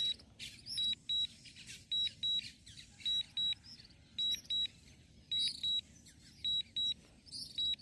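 DJI drone remote controller sounding its low-battery warning: short high-pitched double beeps about once a second. The battery is critically low.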